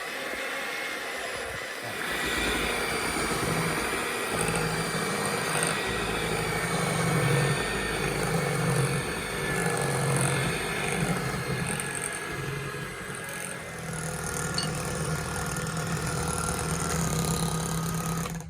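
Electric mixer motor running steadily while beating crepe batter in a bowl, its hum wavering a little as it works, then stopping abruptly.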